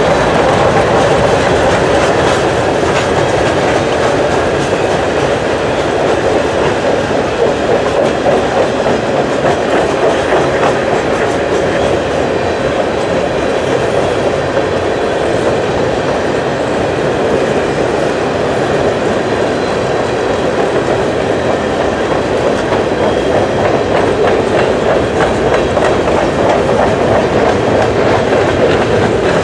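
Covered grain hopper cars of a freight train rolling past, a steady rumble of steel wheels on rail with clickety-clack over the rail joints.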